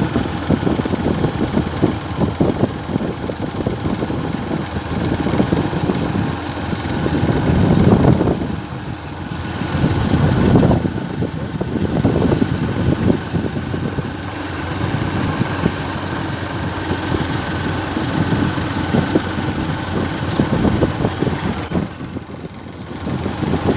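Motor vehicle engine and road noise while driving, a steady rumble that swells twice in the middle and eases briefly near the end.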